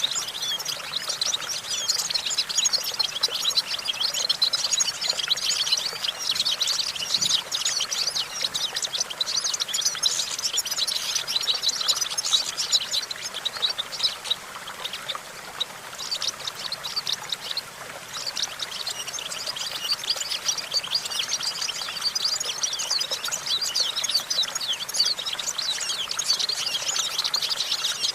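European goldfinch singing a fast, continuous twittering song of rapid high chirps, easing off briefly about halfway through before picking up again.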